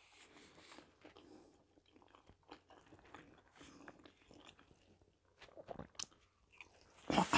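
Faint chewing and small mouth sounds of a person eating a soft zucchini fritter, with a few sharper bite sounds about six seconds in.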